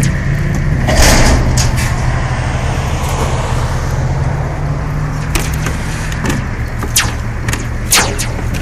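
Motorised standing-seam roof seamer running with a steady low motor hum, with several sharp metallic clicks and knocks as it works the seam on heavy-gauge metal roofing panels.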